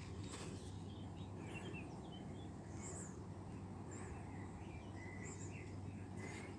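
Faint birdsong: scattered short chirps from small birds, with a low steady hum underneath.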